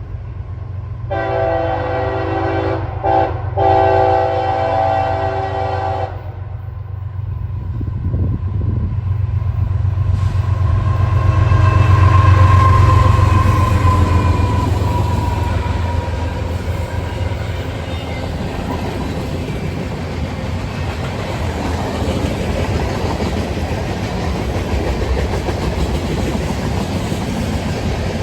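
CSX freight train's horn sounds a chord of tones for about five seconds, broken twice very briefly. Then the train passes close by: a low rumble that is loudest about twelve seconds in, followed by the steady roar and clatter of the freight cars rolling past.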